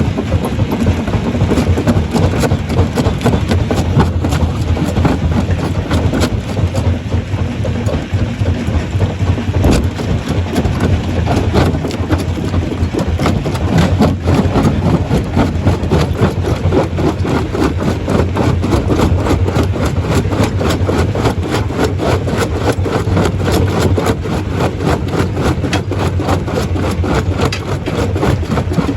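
Stone crusher running under load: a steady low drone with a constant, rapid knocking and rattling of rock being broken, which grows denser after about ten seconds.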